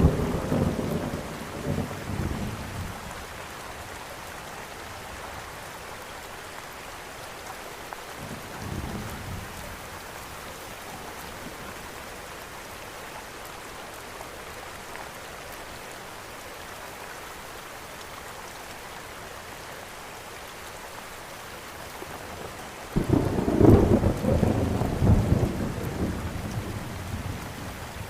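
Steady rain falling, with thunder: a rumble dies away in the first few seconds, a faint one comes about nine seconds in, and a sudden loud thunderclap breaks about 23 seconds in and rolls on, fading toward the end.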